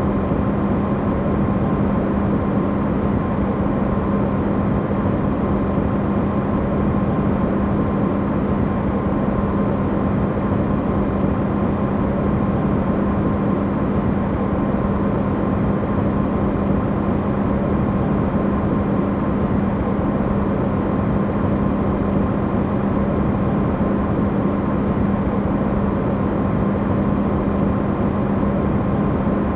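Amplified recording of an Electrolux side-by-side refrigerator running: a steady, unchanging hum with a strong low tone and a fainter higher one over even noise.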